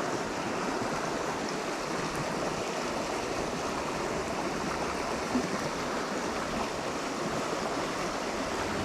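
Stream water flowing steadily, an even wash of noise.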